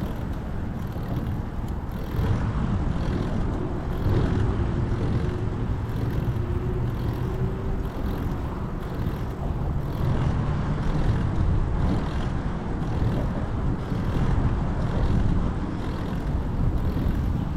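Street traffic noise heard from a moving bicycle: a continuous low rumble of road and wind, with a faint engine tone from a passing vehicle a few seconds in.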